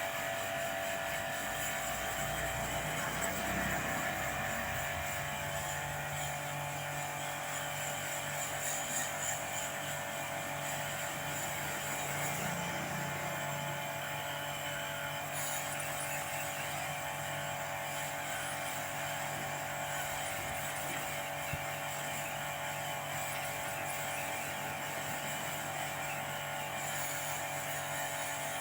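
Electric pressure washer running steadily, its motor and pump giving a constant drone under the hiss of the water spray, while an air-conditioner unit is washed down.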